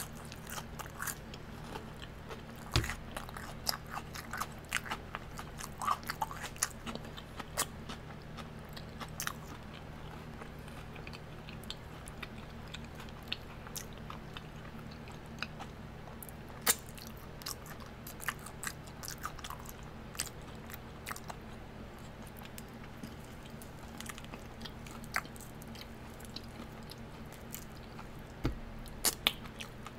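Close-miked eating of sauced hot wings: wet chewing with frequent sharp crunches and mouth clicks, busiest in the first several seconds and again near the end, over a steady low hum.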